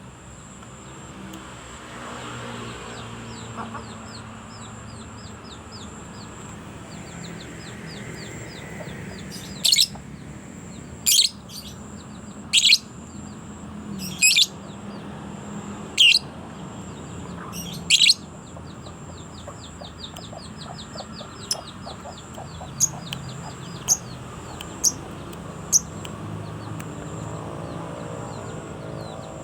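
A bird calling: six loud, sharp calls about every second and a half to two seconds from about a third of the way in, then a run of shorter, quieter calls, with faint rapid twittering trills between them over a steady low background hum.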